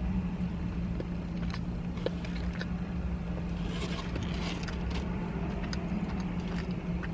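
Quiet eating of a soft donut: faint mouth clicks and a soft smacking patch near the middle, over a steady low electrical hum.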